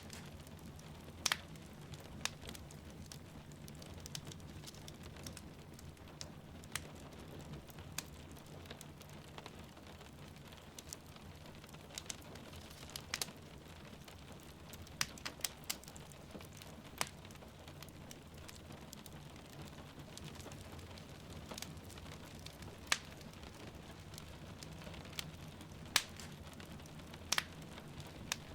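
Wood fire crackling in a fireplace, with irregular sharp pops and snaps, over a steady hiss of rain falling outside.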